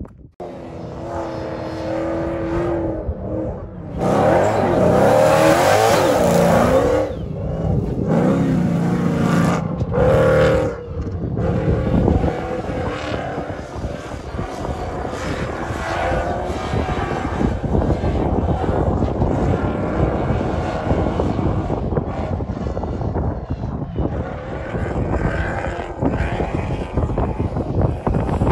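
Rally raid car's engine revving hard as the car slides and drives through sand dunes, its pitch climbing and falling in loud stretches over the first ten seconds or so, then settling into a steadier, more distant engine noise.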